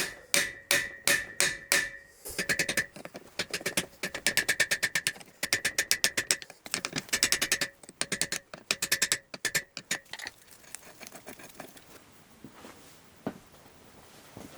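Hammer striking metal in a long series of ringing blows, a few evenly spaced at first, then quick runs of rapid taps, stopping about ten seconds in. The blows are working loose a seized part of an old water turbine's governor.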